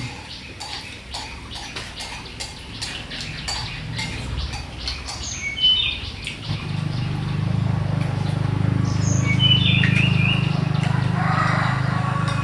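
Birds chirping in short high calls over a run of small quick clicks. About six seconds in, a steady low mechanical hum starts up and grows louder, taking over.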